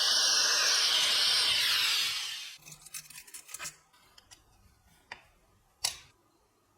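A steady hiss that stops about two and a half seconds in, then a few light clicks and taps, one louder tap near the end.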